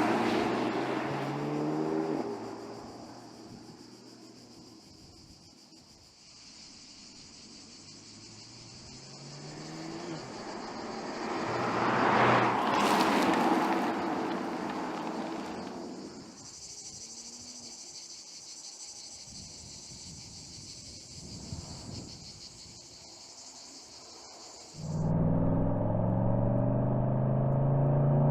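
Porsche Panamera driving on a road: the engine note climbs through the gears in the first two seconds, and a loud pass-by swells and fades about twelve seconds in. A steady high hiss fills the quieter stretch. In the last three seconds the engine is suddenly heard close up, running loud and rising in pitch under acceleration.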